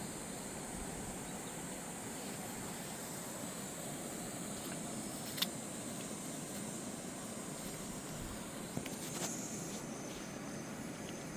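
Fast mountain river rushing over rocks, a steady even roar of water. A sharp click about five seconds in, and a few fainter knocks near nine seconds.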